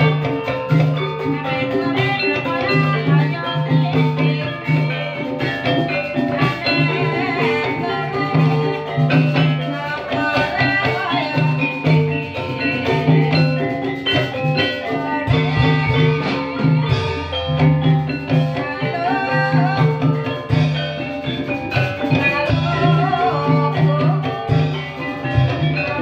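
Gamelan music for an ebeg dance: metal-keyed percussion playing a busy melody over drums, with a steady repeating beat.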